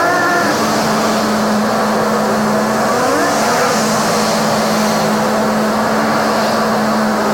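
Honda CB400 Super Four Revo (NC42) inline-four engine under way, rising in pitch as it accelerates near the start and again about three seconds in, then holding a steady pitch while cruising, over a constant rush of wind noise.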